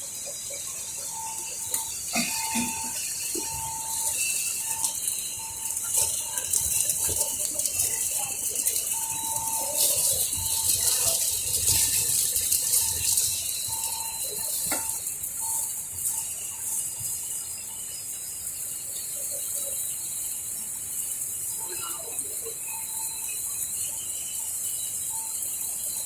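Microwave drying and sterilizing machine running: a steady high hiss with scattered clicks and rattles, and a short mid-pitched tone that sounds on and off irregularly.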